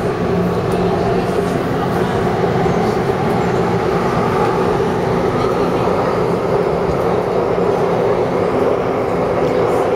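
Taipei Metro C301 train running steadily between stations, heard from inside the carriage: a continuous, even rumble of wheels on rail and running gear with a low hum underneath.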